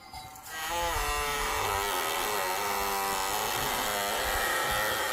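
A small motor or engine starts up about half a second in, rising in pitch, then runs steadily with a buzzing note.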